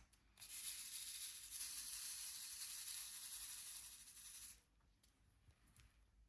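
A steady hiss lasting about four seconds that stops suddenly.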